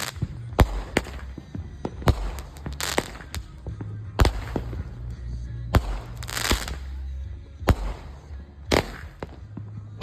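Consumer fireworks going off: about eight sharp bangs at irregular intervals of roughly one to one and a half seconds, several followed by a brief hissing crackle.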